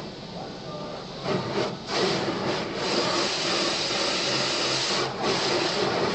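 Automatic car wash working over the car, heard from inside the car: a dense hiss of water spray and wash machinery. It swells about a second and a half in, stays loud, and dips briefly near the end.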